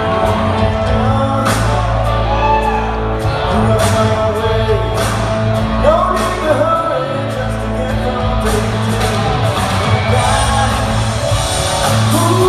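Rock band playing live: electric guitars, bass and drums, with singing over the band.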